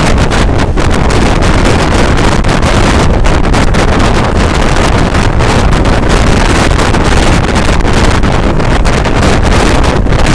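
Strong wind buffeting the microphone over the steady rumble of a moving train.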